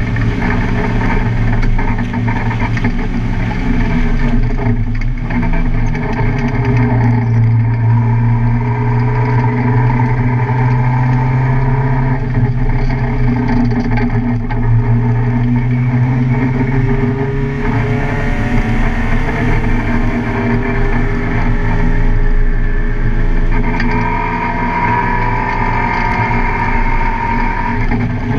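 Car engine running continuously at speed on a race track, with its pitch dropping once about four seconds in and changing again later in the lap.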